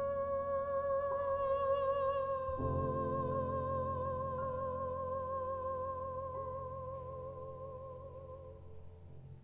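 A soprano holds one long note with vibrato over sustained piano chords that change every second or two. The note and the piano fade away near the end.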